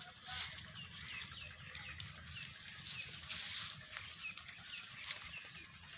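Small birds chirping in a quick run of short, falling chirps, over bursts of rustling and a low steady hum.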